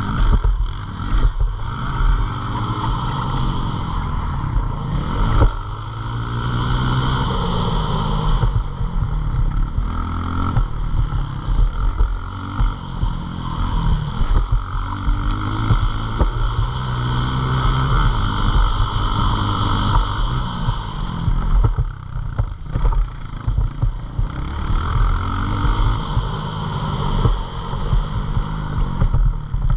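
Pit bike engine revving hard, its pitch climbing and falling again and again as the rider works the throttle and gears, with brief drops in revs a few times.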